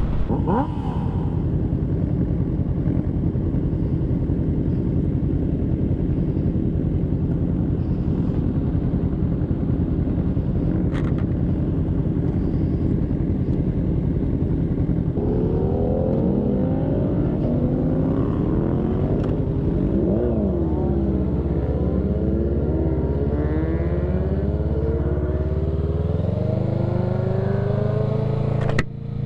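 Kawasaki Ninja 650 parallel-twin engine on a ride: a steady drone for about the first half, then the revs climb and drop again and again as the bike accelerates through the gears.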